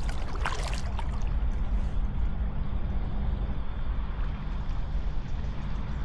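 Kayak paddle strokes in water, splashing and dripping a few times in the first second, over a steady low rumble.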